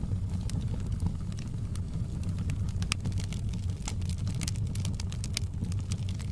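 Wood fire in a fireplace crackling and popping with irregular sharp snaps over a steady low rumble of the flames; the pops come thicker in the second half.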